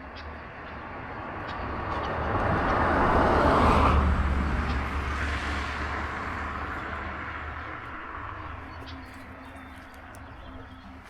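A road vehicle passing by: its engine and tyre noise rise to a peak about four seconds in, then fade away slowly.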